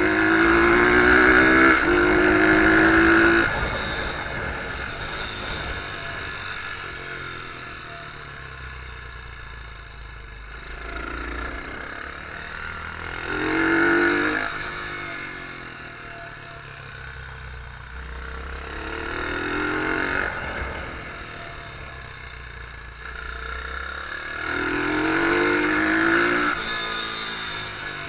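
Beta R150 pit bike engine heard from on board, revving up hard through the gears four times, with a shift about two seconds in, and dropping back off the throttle between the pulls.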